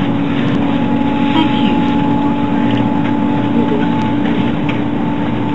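Shinkansen bullet train running, heard from inside the carriage: a steady rumble with a constant low hum.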